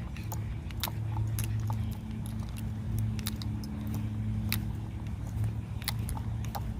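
A steady low hum, like a vehicle engine running, with scattered sharp clicks and ticks over it.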